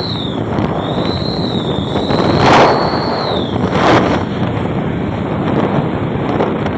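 Modified Toyota Avanza's whistle exhaust ('knalpot serigala') running loud: a high, wavering whistle over steady exhaust noise, with two sharp bangs about a second apart midway.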